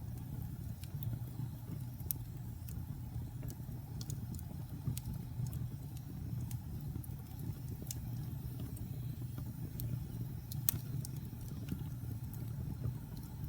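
Wood fire crackling, with sharp irregular pops over a low, steady rumble of flames. One pop, late on, is louder than the rest.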